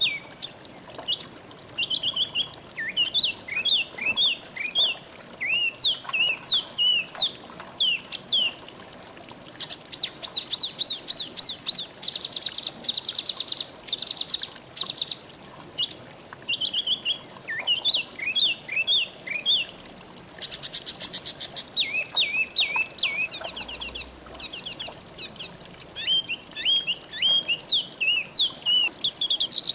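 A songbird singing quick runs of short, sweeping chirps, twice breaking into a fast buzzy trill, over a steady high-pitched whine.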